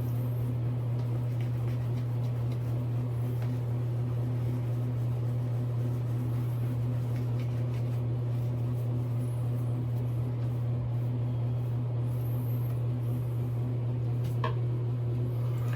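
Steady low background hum, like a fan or air conditioner running, with a few faint, high, scratchy sounds over it.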